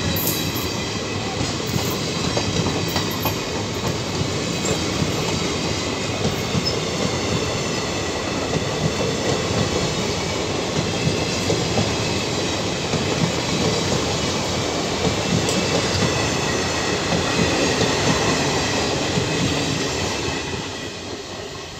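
Passenger train coaches passing close by: a steady rumble of steel wheels on rail with repeated clattering over rail joints, fading near the end as the last coach goes by.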